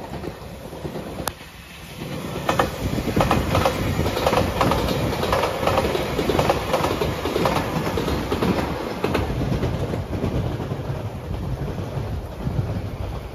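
JR Shikoku 8600 series electric limited express train passing close at speed: a rush of running noise with a quick run of wheel clacks over the rail joints from about two seconds in, dying away after about nine seconds as the train recedes.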